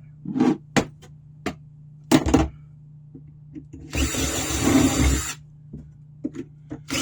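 Power drill running in a short burst of just over a second, boring a bolt hole during a snow shovel repair. A few clicks and knocks come before it.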